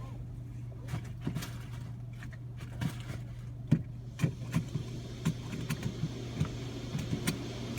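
Touchless car wash heard from inside a car: a steady low hum, with irregular sharp taps on the car's body starting about a second in and coming more often later.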